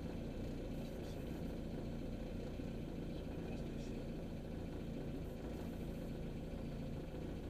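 Renault Dauphine Gordini's engine idling steadily, heard from inside the cabin.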